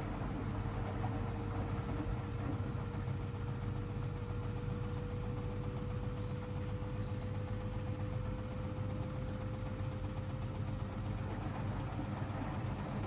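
Hoover DXOA610AHFN-80 washing machine running steadily, with a low hum and a motor whine that climbs slowly in pitch.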